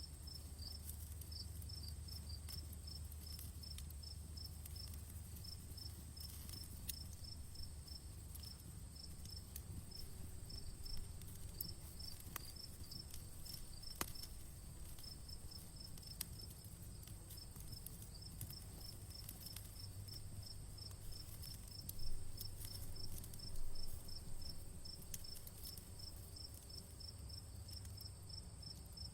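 Crickets chirping in a fast, even rhythm over the low rumble of a campfire, with scattered sharp crackles and pops from the burning wood. A few louder crackles come a little past two-thirds of the way through.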